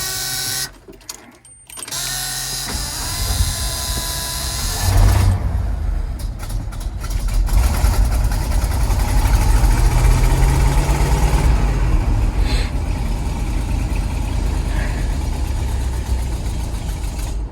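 Ford 370 V8 of a 1984 flatbed truck being cranked over on the starter for a few seconds, catching about five seconds in and then running with a loud, steady low rumble, rising briefly in pitch around ten seconds in. It is the first start after a carburetor rebuild.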